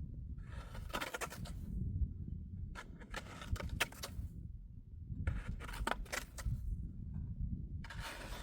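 Snow shovel scraping and biting into packed snow in four long strokes, about two and a half seconds apart, with a low rumble underneath.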